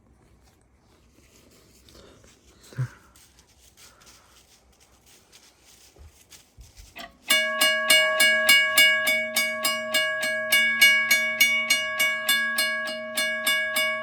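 Railroad crossing signal bell, switched on remotely through a Wi-Fi smart switch, starts ringing about halfway through: rapid, even strikes, roughly four a second, with the bell's tone sustained between them. It stops just at the end, leaving the ring to fade. Before it starts there are only a few faint knocks.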